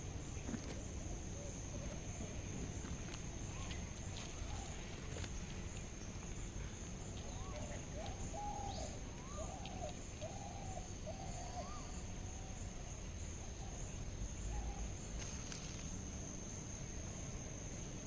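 Outdoor garden ambience dominated by an insect's steady, high-pitched trill, over a low rumble of background noise. A run of faint, short wavering calls comes in the middle.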